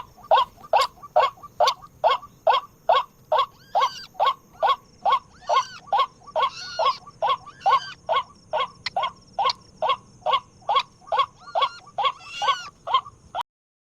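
White-breasted waterhen calling close by: an unbroken run of the same short call repeated about three times a second. A few times a higher, wavering note overlaps it. The calling cuts off suddenly near the end.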